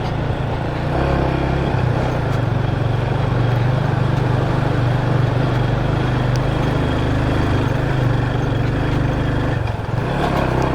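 Motorcycle engine running steadily while riding, with a broad hiss of road and air noise over it. The engine note dips briefly about a second before the end, then picks up again.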